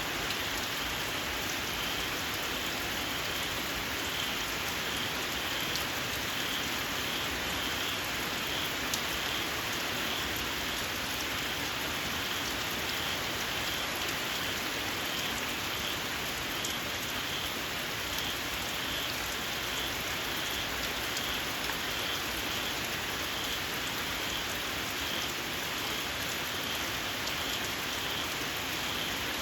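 Steady rain falling. Over it, small paddy-field frogs repeat a high, shrill call at an even pace.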